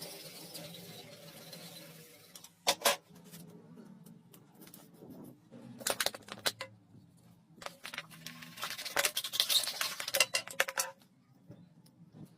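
Hard objects being handled during a repair: a sharp knock, then bursts of clicking and clattering, busiest in the last few seconds before it stops near the end.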